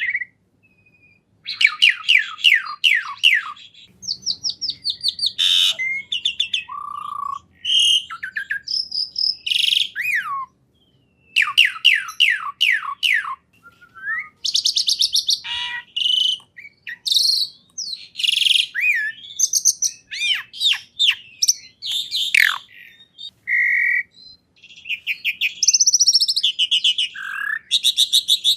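A songbird singing a long, varied song of rapid trills, whistled notes and chirps in quick succession, broken by a few short pauses.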